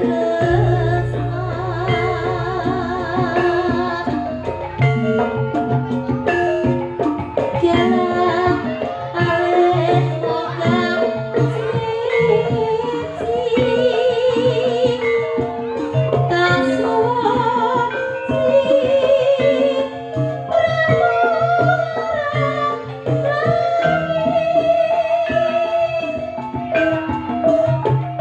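Live dangdut-style ebeg (jaranan) music played through a PA sound system: a sung melody with strong vibrato over drums and accompanying instruments, running continuously.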